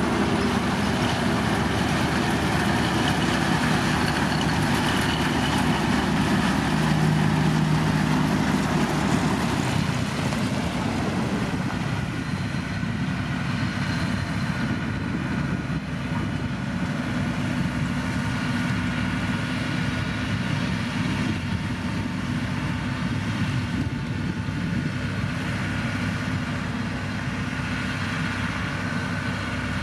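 Heavy road-construction machinery engines running steadily, a little louder in the first ten seconds or so.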